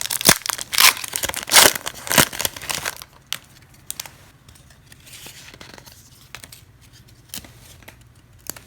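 Trading-card pack wrapper being torn open and crinkled for about three seconds, then quieter, scattered clicks and rustles of cards being handled.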